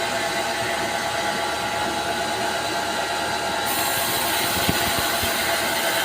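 Power saw running steadily as it rips lengthwise through a log of jengkol wood, a timber that quickly dulls the saw blade. Part way through, the sound turns brighter and harsher.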